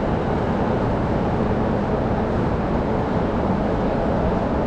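Steady low rumble of a train running, an even noise without distinct clanks or changes.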